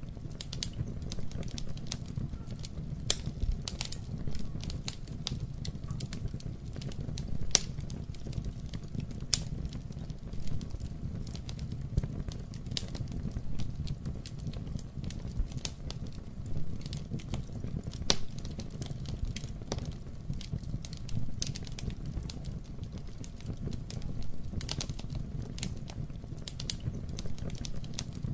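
Campfire burning: wood crackling with irregular sharp pops and snaps over a steady low rumble, a couple of louder pops standing out about a third of the way in and again past the middle.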